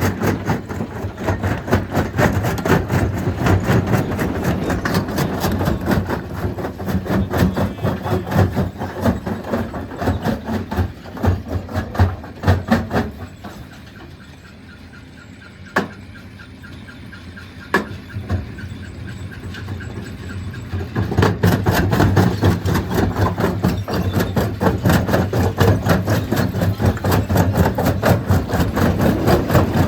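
Stone crushing machine at work breaking rock, a dense continuous clatter. About halfway through it falls much quieter for around seven seconds, broken by two sharp knocks, then the full clatter comes back.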